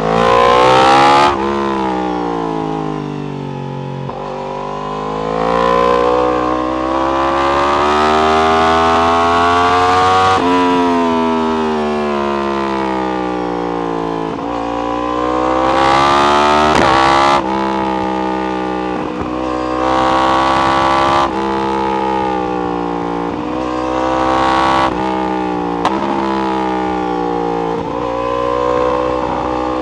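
Yamaha R1 sport bike's inline-four engine through an Akrapovic exhaust, pulling hard through the gears and slowing again. The pitch climbs and then drops sharply at each upshift, several times over.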